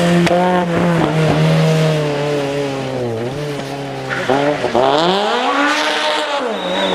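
Car engine revving hard, its pitch holding steady at first, dipping about three seconds in, then rising and falling again in one long swell near the end.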